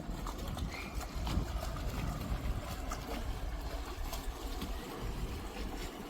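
Sailing yacht on the water: a steady low rumble with water noise and scattered faint ticks.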